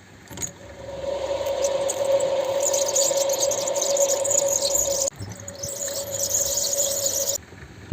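A small electric motor running with a steady whine and a hiss above it. It cuts out abruptly about five seconds in, starts again at once, and stops near the end.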